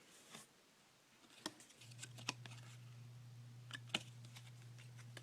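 Faint clicks and light rustling of trading cards and foil packs being handled, a few sharp ticks among them. A steady low hum sets in about two seconds in.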